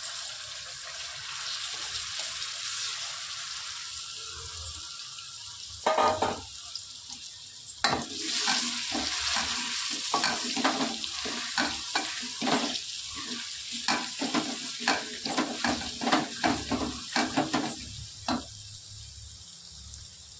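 Hot oil in a steel kadhai sizzling as red masala and chicken pieces go in. The sizzle starts suddenly and is strongest about eight seconds in. Over it come repeated quick knocks and scrapes of a utensil against the pan, from about six seconds in until near the end.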